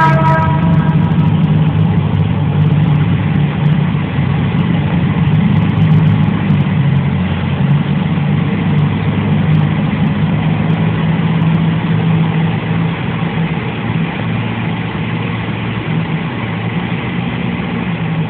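A small car's engine running steadily close by, with a horn note ending about a second in.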